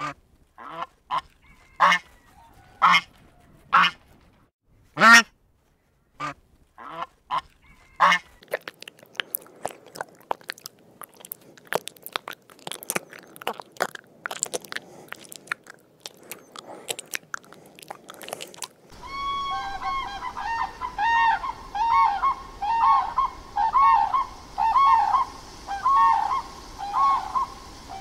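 Domestic geese honking in short separate calls. These give way to a long stretch of faint, rapid clicking and crackling. Near the end come steady repeated honking calls from a large bird.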